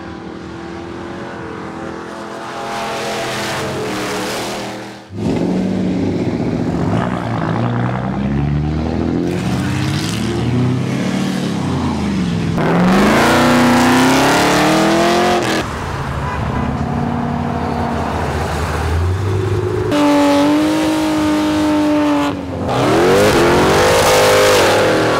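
Performance car engines revving hard and accelerating in a string of short clips, each engine note climbing and falling with the throttle and breaking off abruptly at each cut.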